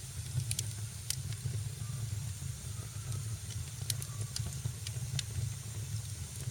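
Wood fire burning in a fireplace: a steady low rumble of flame with a hiss over it and sharp crackles and pops, a cluster in the first second and several more about four to five seconds in.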